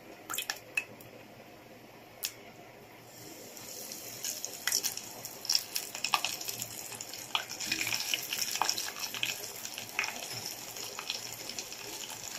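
A few sharp clicks, then from about three seconds in a floured chicken drumstick sizzles and crackles in hot frying oil, with many small pops.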